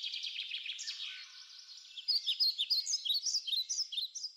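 Birds chirping: a rapid, dense chatter for the first second or so, then a string of short, sharp, repeated chirps at about four a second that cuts off suddenly at the end.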